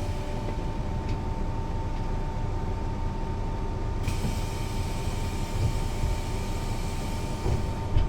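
Mercedes-Benz O 405 NÜ low-floor bus running at a steady speed: engine and road rumble under a steady whine of unchanging pitch. A single thump near the end.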